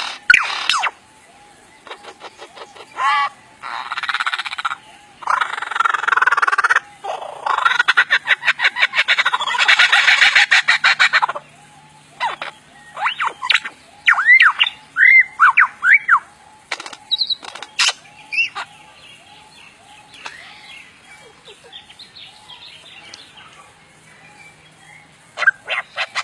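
Superb lyrebird singing a mimicry sequence: loud bursts of rapid, stuttering rattles in the first half, then a run of clear whistled notes that slide up and down, then softer scattered calls near the end.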